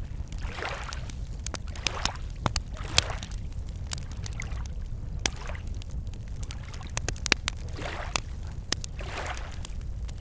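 Wood campfire crackling with frequent sharp pops, while small waves lap against the lakeshore every couple of seconds, over a steady low rumble.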